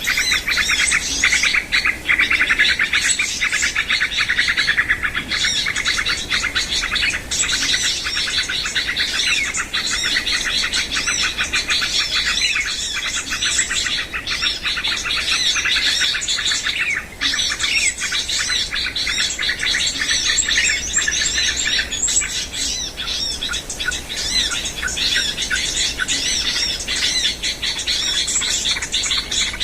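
Dense, continuous chorus of small birds chirping: rapid overlapping high calls with no break.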